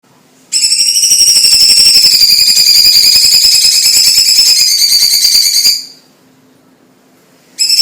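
A Chinese leafbird (cucak ijo) singing one long, fast, buzzy trill at a nearly steady high pitch. It starts about half a second in, stops after about five seconds, and starts again near the end.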